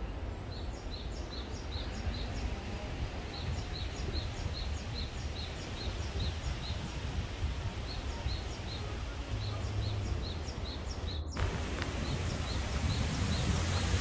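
A bird repeating a short, high call note about three times a second in long runs, with a low wind rumble on the microphone underneath. The runs break off sharply about 11 seconds in and then resume.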